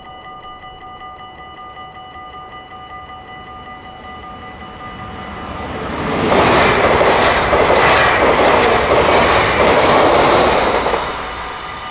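Level-crossing warning bells ringing steadily in a fast ticking pattern. An NS yellow-and-blue double-deck electric passenger train builds up from about five seconds in and passes loud for about five seconds, wheels clattering over the rail joints. It fades near the end, with the bells still ringing.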